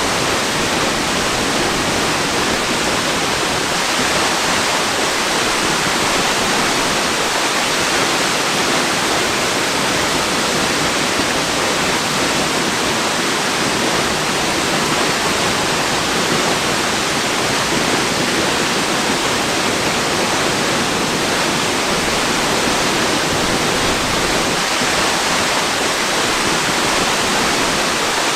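Waterfall pouring in a steady, even rush of water with no breaks or changes.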